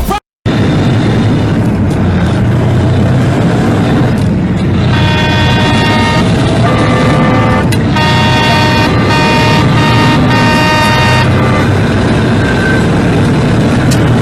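Loud, steady road and engine noise of a moving vehicle, with a horn sounding in several long blasts from about five seconds in until about eleven seconds, its pitch shifting between blasts.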